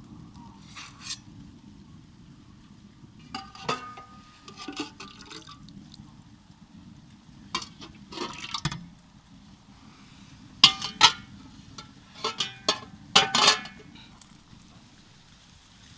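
Tableware, glass or ceramic, clinking and knocking in several short clusters, the loudest clinks near the end, over a steady low background rumble.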